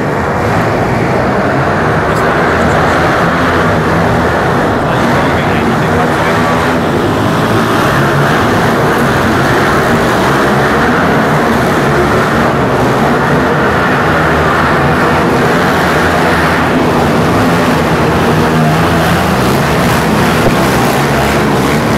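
Several dirt bike engines racing, revving up and down as the bikes go around the track.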